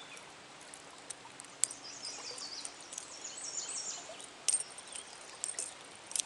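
A songbird sings a run of high whistled notes for about two seconds over the steady rush of a trout stream, with a few sharp clicks.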